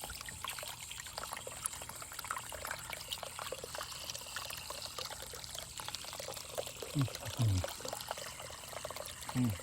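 Water trickling and splashing steadily as a small pump spills it over stones into the basin of a tabletop stone waterfall. A few brief low murmurs come near the end.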